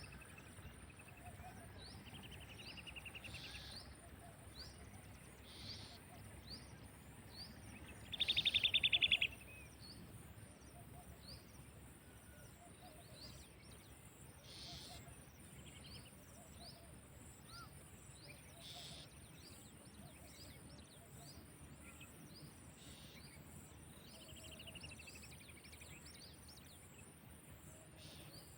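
Wild birds calling: short high chirps repeat throughout, with a loud buzzy trill lasting about a second, about eight seconds in, and weaker trills near the start and near the end. A faint steady high hiss runs underneath.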